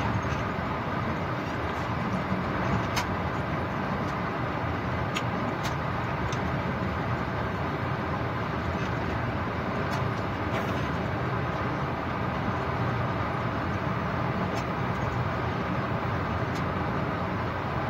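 Steady rumble of a train running, heard from inside the locomotive cab, with a few scattered sharp clicks.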